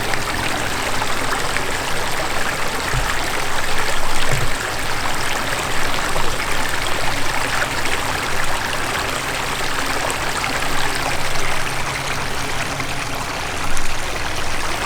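Water running in a creek, a steady trickling and rushing, with a couple of brief low bumps a few seconds in.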